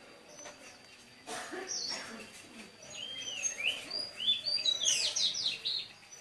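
Small birds chirping in short, quick, up-and-down notes, getting busier and louder about three seconds in. There is a brief rustle about a second in.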